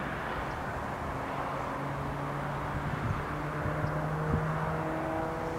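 Electric train approaching the crossing: several steady humming tones build in from about two seconds in, over a low background rumble, with a few short knocks.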